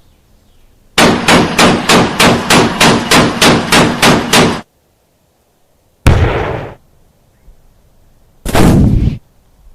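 Gunshot sound effects: a burst of automatic weapon fire, about fourteen rounds at roughly four a second, beginning about a second in. Two single heavy shots follow a couple of seconds apart, each with a short fading tail.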